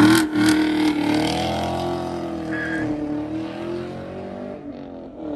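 Car launching hard and pulling away: its engine holds a high, steady note that slowly fades as the car drives off.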